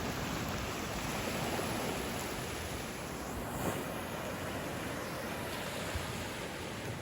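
Ocean surf washing on a beach: a steady rushing noise that swells and eases slightly.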